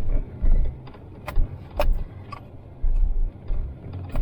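Off-road truck rolling slowly over a snowy, rutted trail, heard from inside the cab: uneven low rumbles that come in surges, with sharp clicks and rattles of loose items a few times.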